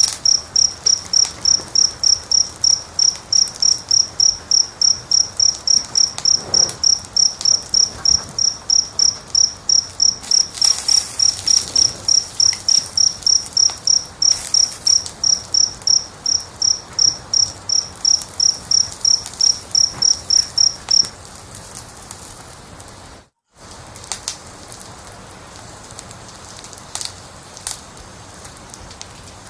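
A cricket chirping in a steady rhythm, about two to three high chirps a second, over the soft crackle and occasional pops of a wood fire. The chirping stops about two-thirds of the way through, and the sound cuts out completely for a moment shortly after, leaving only the fire crackle.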